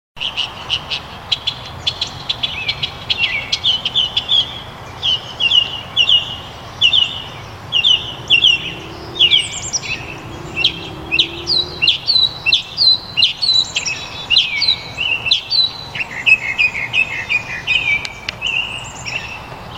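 Northern mockingbird singing: a long, unbroken run of varied quick phrases, each repeated a few times before it switches to a new one.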